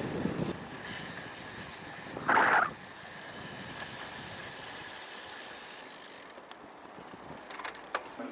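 Road bicycle on the move, giving a steady high buzz, with a short loud burst about two seconds in and a few sharp clicks near the end.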